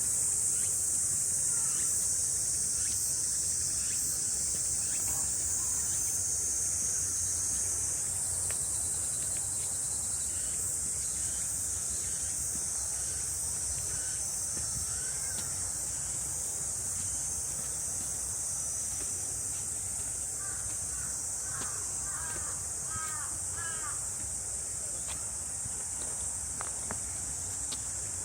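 A chorus of summer cicadas makes a steady, unbroken high-pitched drone. About three-quarters of the way through, a bird gives a quick run of short calls.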